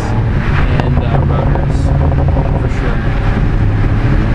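BMW F30 335i's turbocharged N55 inline-six engine, running a Bootmod3 stage 2 tune, pulling the car along steadily, heard from inside the cabin with wind buffeting the microphone.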